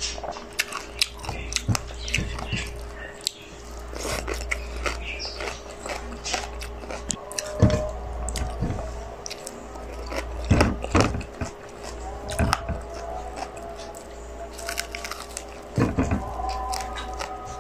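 Close-miked chewing and mouth sounds of a person eating chicken kabsa, rice and roast chicken, by hand: irregular wet clicks and smacks. A faint steady hum runs underneath.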